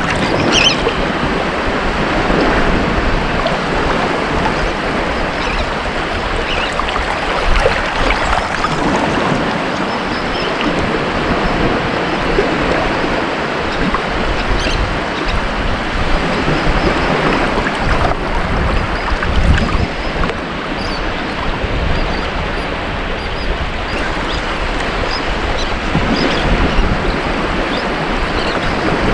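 Ocean waves breaking and washing on a beach in a continuous surf wash, swelling and easing every few seconds.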